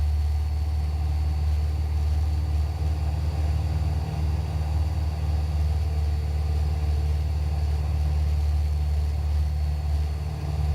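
Cessna 172's piston engine and propeller droning steadily in flight, heard inside the cabin as an even low hum that barely changes.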